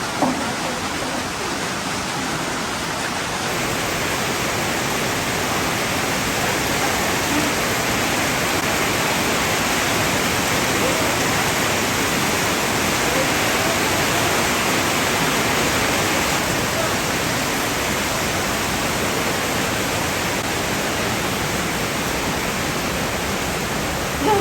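Heavy rain pouring steadily, a dense even hiss that swells slightly in the middle.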